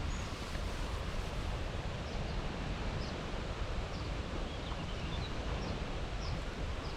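Steady outdoor noise with an uneven low rumble of wind on the microphone. Faint, short, high bird chirps come every second or so, with a quick twittering run about five seconds in.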